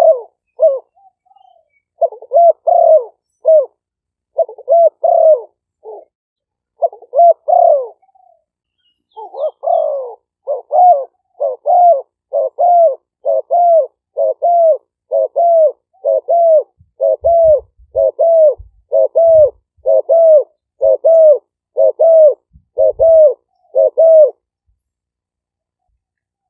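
Spotted doves cooing: short coo notes in broken groups at first, then a long, even run of coos about one and a half a second that stops a couple of seconds before the end.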